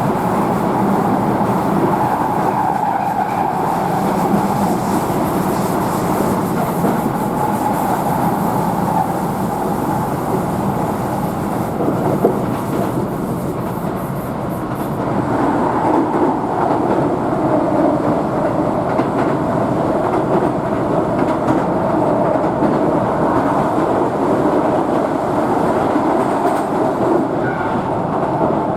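Keihan electric train running between stations, heard from inside the passenger car: a steady rumble of wheels and running gear on the rails.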